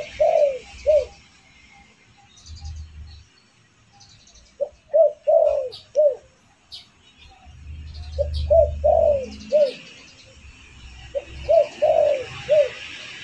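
Spotted dove (derkuku) cooing: four phrases a few seconds apart, each a quick run of short coos ending in a longer falling coo, used as a lure call. Faint high chirps of small birds sound in between.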